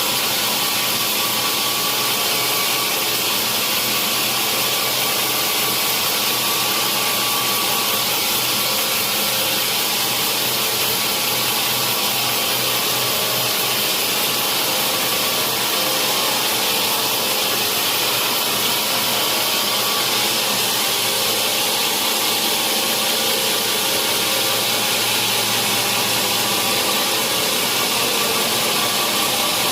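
Sawmill machinery running steadily: a loud, constant noise that holds unchanged throughout, typical of a large log saw at work.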